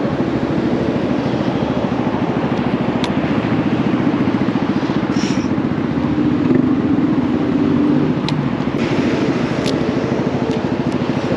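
Honda Navi's small single-cylinder four-stroke engine running steadily through a Vance & Hines aftermarket exhaust, a fast even firing pulse.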